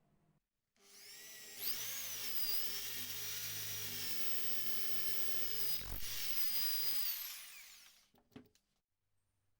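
An electric power tool's motor spins up, runs at a steady high whine for about five seconds, then winds down to a stop, with a couple of light clicks near the end.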